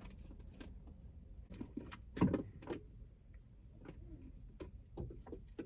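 Scattered light clicks and knocks of small plastic parts being handled inside a car, with one louder knock about two seconds in.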